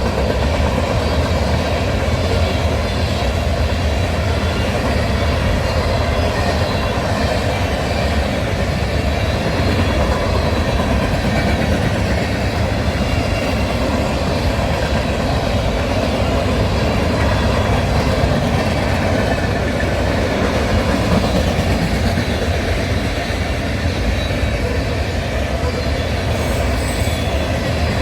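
A train's cars rolling past close by on the rails: a loud, steady rumble of wheels on track that holds unchanged.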